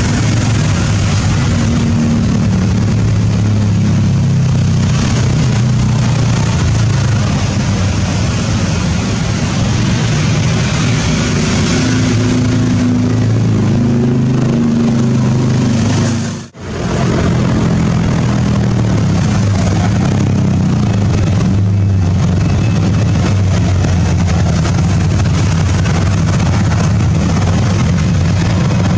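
Boeing 777-300ER's twin GE90 jet engines running, a loud, steady rumble, broken by a brief dropout about sixteen seconds in.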